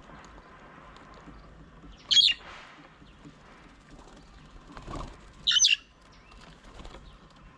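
A bird at a feeding table gives two short, loud, harsh calls about three seconds apart, with a softer rustle just before the second, over faint background birdsong.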